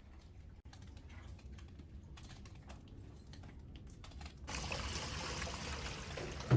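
Faint, irregular drips of leaking water, then about four and a half seconds in a sudden change to a steady rush of flowing water.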